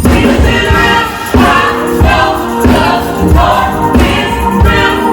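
Live gospel music: a group of singers with a band, the singers coming in with a new phrase every second or so over a steady bass beat.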